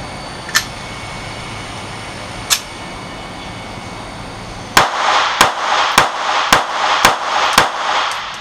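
Smith & Wesson M&P Bodyguard .380 pistol fired six times in quick succession, about half a second apart, cycling and feeding each round without a stoppage. Two light clicks come before the shots.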